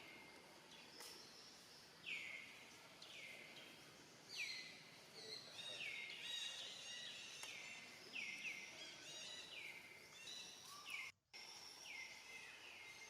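Faint, repeated high chirping calls from a bird, each falling in pitch and often in pairs, over a soft outdoor background hiss; the sound drops out briefly near the end.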